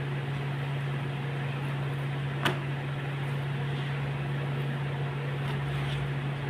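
Steady low hum over an even hiss, with a single sharp click about two and a half seconds in.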